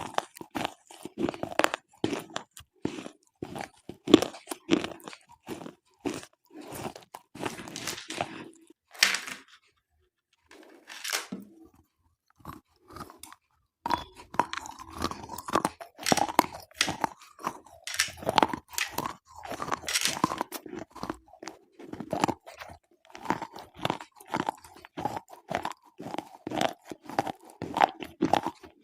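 Slate pencils being bitten and chewed: dense, crisp, gritty crunching close up. About ten seconds in the crunching thins out to a few isolated crackles for about three seconds, then starts again.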